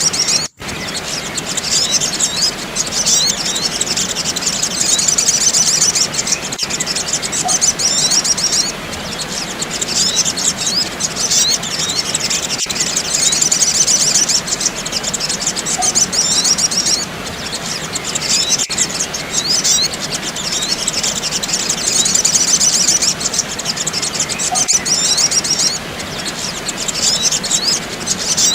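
Sunbirds (sogok ontong) twittering: rapid, high-pitched chirps and trills over a steady hiss. The recording repeats in a loop about every six seconds, with a faint click at each join and a brief dropout about half a second in.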